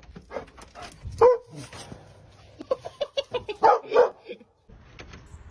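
Short, sharp animal calls: one loud call about a second in, then a quick cluster of several more about two-thirds of the way through.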